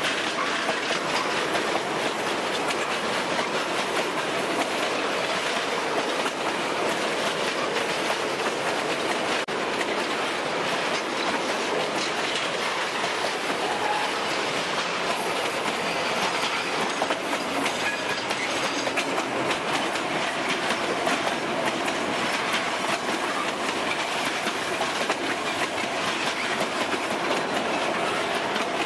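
Freight train of tank cars and boxcars rolling past at close range: a steady clatter of steel wheels over the rails, with no break.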